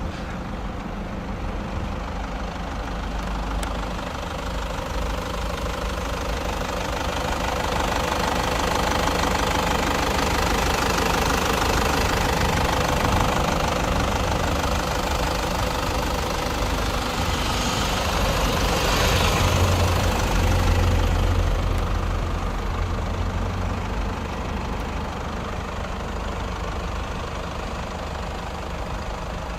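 The Land Cruiser Prado's 3.0-litre inline-four turbodiesel idling steadily. It grows louder from about a quarter of the way in, peaks a little past the middle, then eases back.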